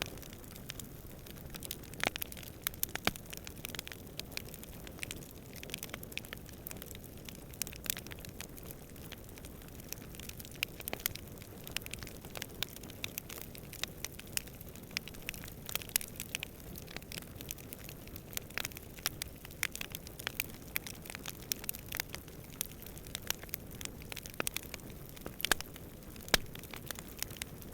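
Wood campfire crackling, with irregular sharp pops and snaps over a steady low rumble of burning and distant wind.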